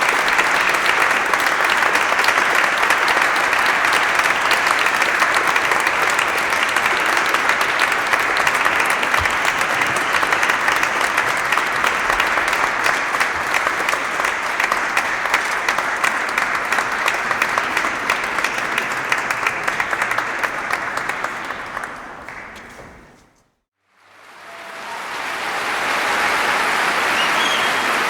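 Audience applause, dense and steady. It fades out about 23 seconds in, then fades back in.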